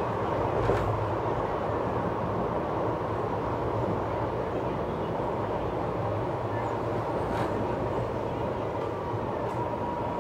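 Passenger train running at speed, heard from the open coach doorway: a steady rumble of wheels on rails with wind noise and a low hum. There are two brief sharp knocks, about a second in and again near the middle.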